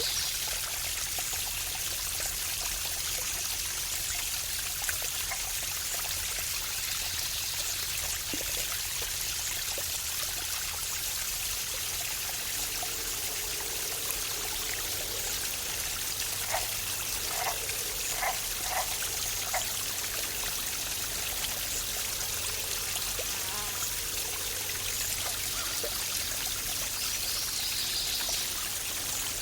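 Waterfall: water pouring and splashing in a steady rushing hiss. A short run of brief higher-pitched notes comes a little past the middle.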